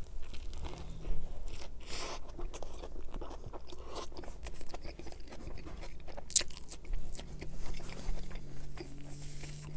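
Close-miked eating of a Burger King Whopper Jr. made with extra mayo and ketchup: a bite into the soft bun, then crunching and chewing with lip smacks and sucking sauce off the fingers. One sharp smack stands out about six seconds in.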